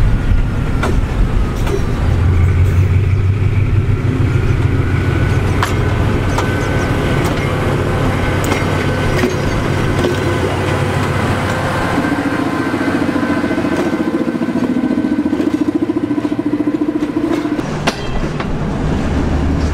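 Train passing close by on the track: a steady rumble of its wheels on the rails, with scattered sharp clicks and knocks as the wheels run over the rail and a faint steady whine.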